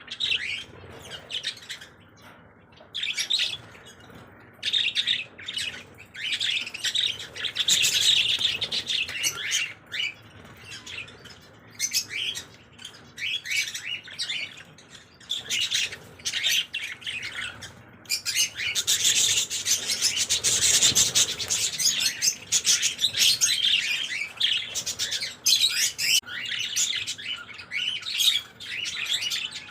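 Birds chirping and chattering in a dense, continuous stream of rapid high chirps, busiest about a quarter of the way in and again past the middle.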